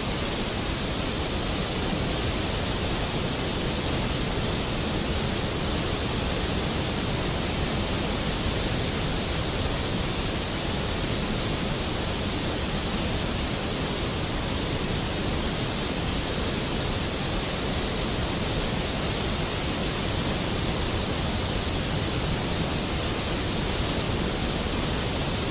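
Floodwater pouring down a reservoir's spillway after heavy rain, a steady, unbroken rush of water.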